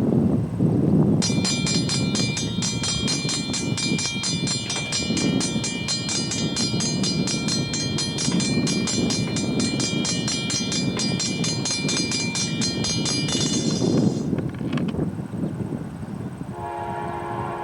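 A diesel freight train rumbles past while a bell rings in quick, even strokes from about a second in until about 13 seconds. Near the end a locomotive air horn sounds a steady chord of several notes.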